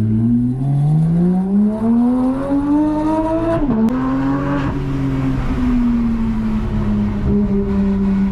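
Porsche 911 GT3's naturally aspirated flat-six accelerating, its pitch rising steadily, with a quick upshift about three and a half seconds in. After the shift the revs climb briefly, then ease off and hold steady.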